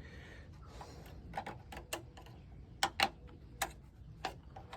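Irregular small clicks and taps of hand tools against the latch parts and clips inside a GMC truck door, about eight sharp ticks spaced unevenly.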